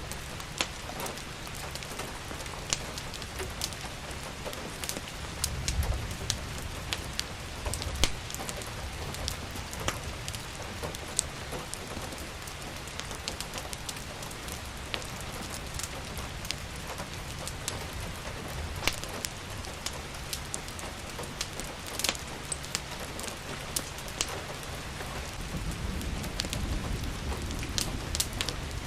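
Steady rain with the irregular snaps and pops of a wood fire crackling in a fireplace. A low rumble swells about six seconds in and again near the end.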